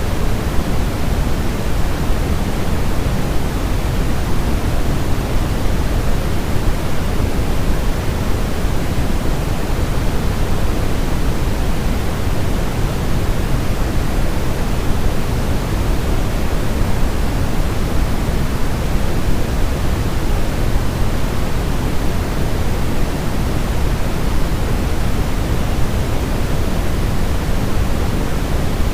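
Steady, even noise with its weight in the low end and less hiss up high, like pink noise, played as sleep noise meant to imitate the sound of the womb for a colicky baby. It holds constant with no changes or breaks.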